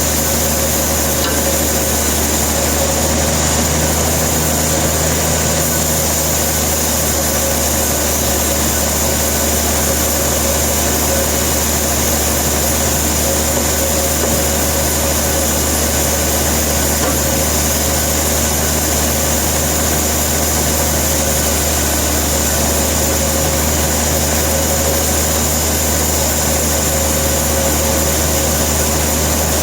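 Sawmill machinery running steadily: an engine drone with a constant high whine, unchanging throughout.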